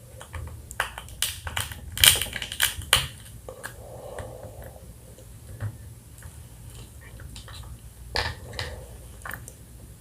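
Close-miked eating of pickled blue crab: a quick run of crisp, clicking crunches and wet mouth sounds in the first three seconds, a softer slurp-like sound around four seconds, and another short burst of crunchy clicks near the end.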